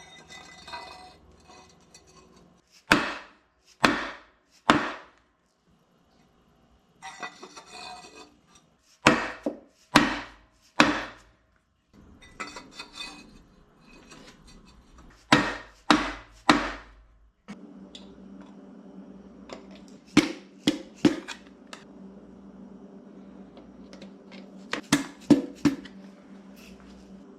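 Hammer blows in quick groups of two or three, each strike ringing briefly, with a few seconds between groups.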